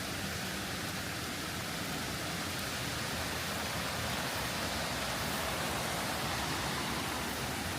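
Steady rushing water noise, an even hiss with no distinct drops or strikes, swelling a little in the middle.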